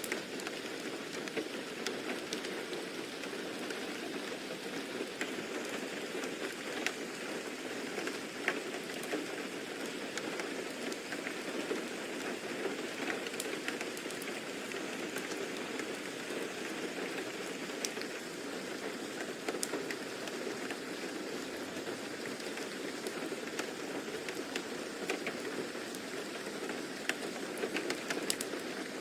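Steady rain falling on a surface, an even patter with scattered individual drops ticking.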